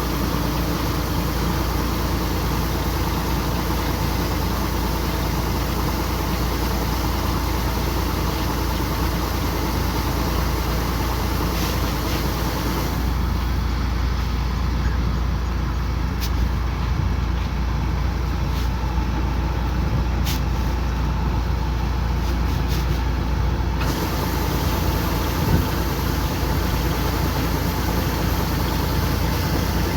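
Kubota combine harvester running steadily, its engine drone and the clatter of the harvesting machinery heavy in the low end. The sound changes character about 13 seconds in and changes back about 24 seconds in, with a few sharp clicks in between.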